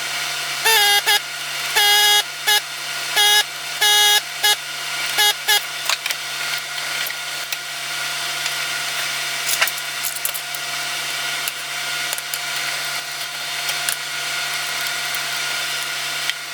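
A string of short, irregularly spaced beeping tones, some in quick pairs, over a steady low hum. The beeping stops about five and a half seconds in.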